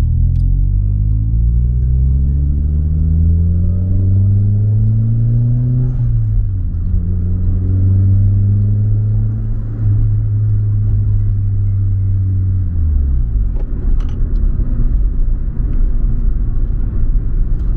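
Nissan Silvia S15 Spec R's turbocharged SR20DET four-cylinder engine pulling through the gears while driving. The revs climb for about six seconds, drop at a gear change, hold steady, then fall away about thirteen seconds in as the throttle is lifted, leaving road rumble.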